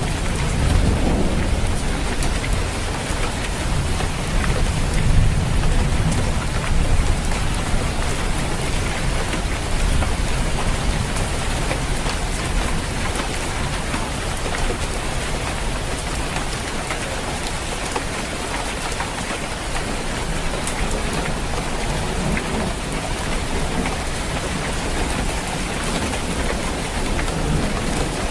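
Steady rain pattering on a roof, with a low rumble of thunder in the first few seconds.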